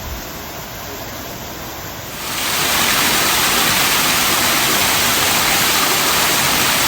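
Steady rushing noise with no distinct tones, stepping up sharply about two seconds in and then holding loud and even.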